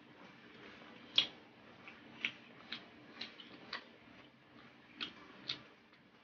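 Close-up mouth sounds of chewing sauced barbecue pork rib: a string of sharp, wet clicks and lip smacks, roughly one every half second.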